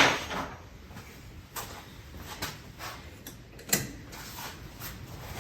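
A few separate knocks and clinks of metal tools being handled, with a sharp knock at the start and another louder one about three and a half seconds in.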